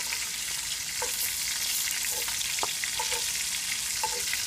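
Steady frying sizzle, with metal tongs clicking and scraping against a cast iron skillet several times as red bell pepper strips are picked out of it.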